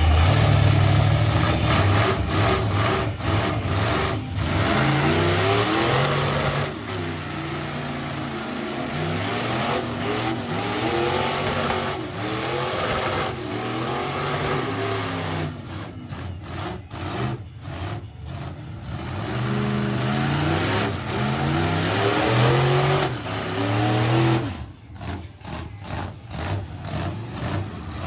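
V8 mud truck engine revving hard again and again, its pitch climbing and falling with each rev, with the sound breaking up briefly twice in the second half.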